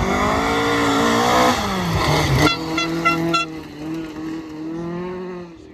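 Rally car passing at speed: the engine note climbs, then drops, and about two and a half seconds in it gives a quick run of about five sharp crackles, after which it carries on at a steadier pitch and fades away.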